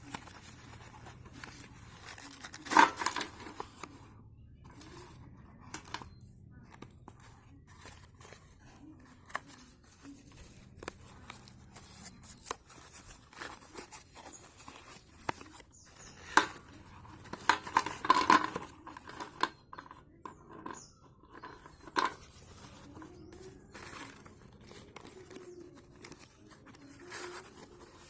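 Slate pencils being bitten and chewed: a run of sharp, gritty crunches and clicks, with the loudest bites about three seconds in and again around eighteen seconds.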